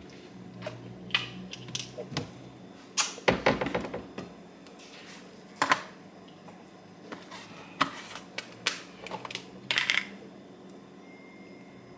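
Scattered clicks and knocks of small objects being handled, with a denser clatter about three seconds in and a quick run of clicks near the end.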